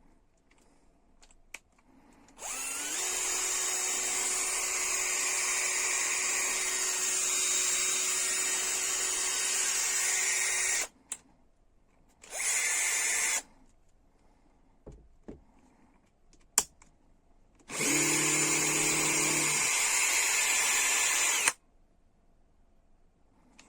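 Bosch EasyImpact 18V-38 cordless drill running in three bursts: a long run of about eight seconds, a short one of about a second, then one of nearly four seconds. A few sharp clicks fall between the runs.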